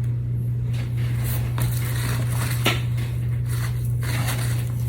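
A steady low electrical hum, with a few faint small clicks and scrapes from hands handling small craft tools and a mould.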